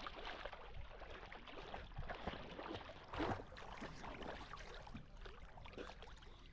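Seawater splashing and sloshing around a person wading and swimming in the sea, a run of small irregular splashes with one louder splash about three seconds in.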